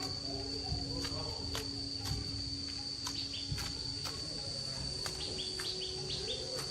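Insects trilling, one steady high-pitched tone, with scattered light clicks and knocks and a few short chirps over it.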